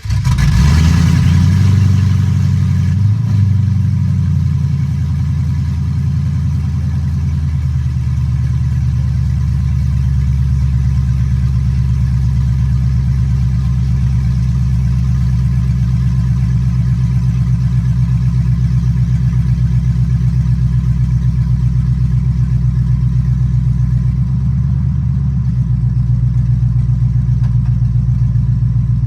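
LS-swapped box Chevy's V8 starting up, flaring for a couple of seconds and then settling into a steady, loud idle. The exhaust is loud, which is why the car is headed to an exhaust shop to quiet it down.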